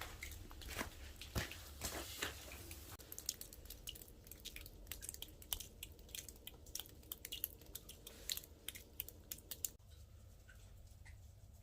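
Small wood fire in a nature stove crackling, with many quick irregular pops and snaps that grow sparser toward the end.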